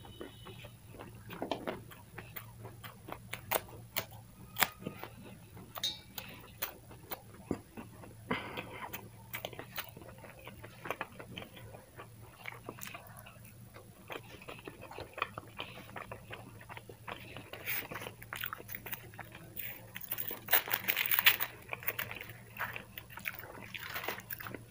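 A person chewing and eating: irregular wet mouth clicks, smacks and crunches, densest and loudest near the end.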